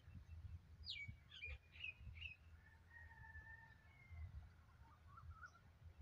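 Birds calling faintly: a quick downward whistle about a second in, then several short chirps, a couple of longer held whistles in the middle and a short warble near the end, over a steady low rumble.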